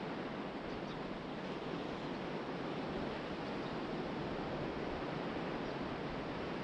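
Ocean surf washing onto the beach in a steady rush, with wind blowing over the microphone.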